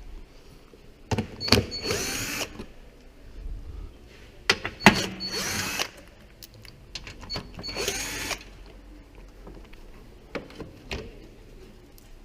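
Cordless screwdriver with an 8 mm socket running in three short bursts of about a second each, its motor whine bending in pitch as it undoes the screws of the engine's underbody cover. Sharp clicks and knocks come between the bursts.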